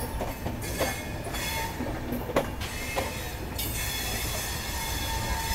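Passenger train running on the track: a steady rumble and hiss, with a few sharp clacks of the wheels over rail joints at uneven intervals and a thin squeal from the wheels near the end.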